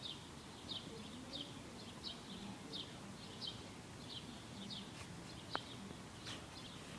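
Birds chirping over and over, short high chirps that drop in pitch, repeating roughly every two-thirds of a second, with one brief sharp click a little past halfway.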